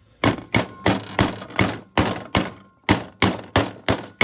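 Rubber mallet striking repeatedly, about three blows a second, driving a new crankshaft seal into an EZGO Robin engine's aluminum side cover. The blows land as dull thunks, some with a faint metallic ring.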